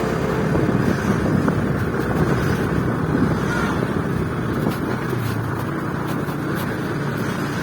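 Motorcycle running on the road, its engine under a steady rush of wind over the microphone.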